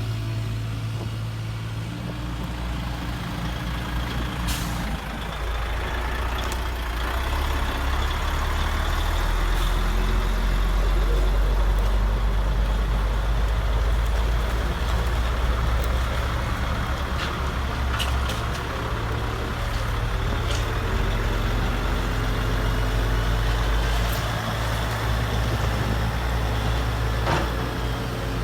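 Radio-controlled heavy construction model running: a steady low engine-like drone that shifts in pitch and strength, with a faint whine above it and a few sharp clicks.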